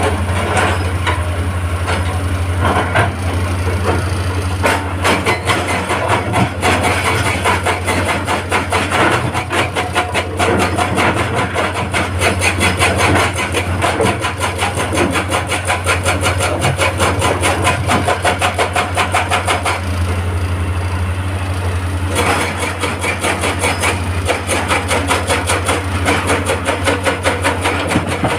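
Heavy excavator's diesel engine running under load while a hydraulic breaker hammers rock in a rapid, even stream of metallic blows, easing off briefly about two-thirds of the way through.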